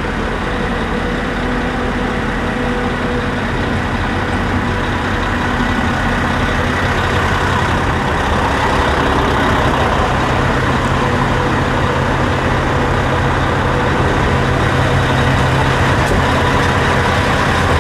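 A motor running steadily, engine-like, with no pauses.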